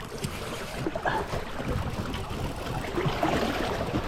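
River water splashing and lapping against a small inflatable fishing raft, an uneven wash of small splashes.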